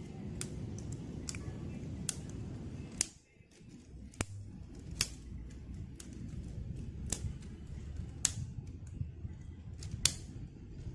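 Sharp clicks or snaps, roughly one a second, over a steady low rumble.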